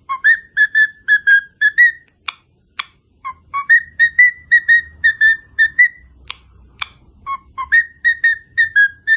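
Parrot whistling: three phrases of quick, short notes repeated at nearly one pitch, each phrase opening on a lower note that slides up. A few sharp clicks fall in the gaps between phrases.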